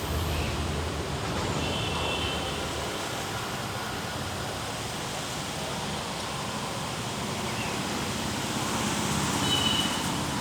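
Steady noise of highway traffic in heavy rain: vehicles passing and tyres hissing on the wet road. Brief high tones sound about two seconds in and again near the end.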